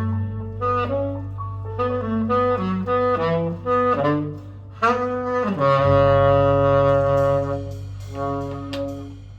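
Jazz big band with saxophones and brass playing a quick run of short notes, then landing on a long, loud held final chord about six seconds in that thins out and fades near the end: the close of the tune.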